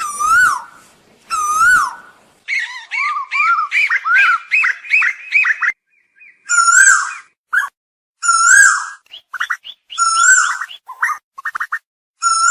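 Asian koel calling: loud, repeated whistled notes that rise and fall, with a quicker run of rising notes in the middle and short silent gaps between phrases.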